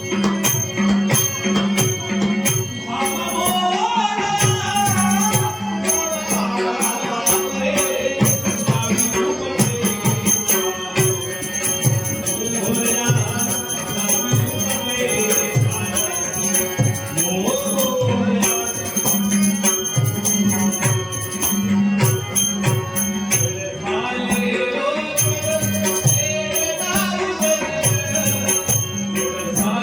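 A man singing a Shri Ganesh stavan, a devotional hymn, in long gliding phrases over a steady drone, with regular hand-drum strokes and jingling small cymbals. The singing drops out briefly about 24 seconds in while the drum and cymbals keep going.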